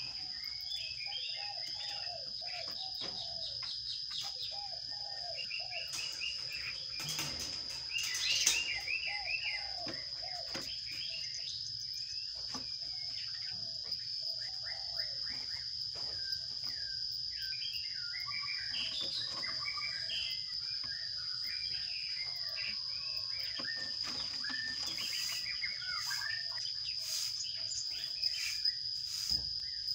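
Sparrows chirping rapidly and continuously, in short repeated chirps at two pitches, over a steady high-pitched whine. A cluster of knocks and scrapes comes about seven to nine seconds in.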